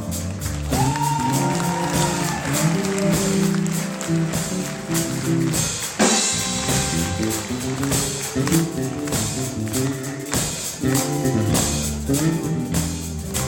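Live pop band playing an instrumental vamp with drums, bass, guitar and tambourine keeping a steady beat, and a held lead note that slides up and back down about a second in.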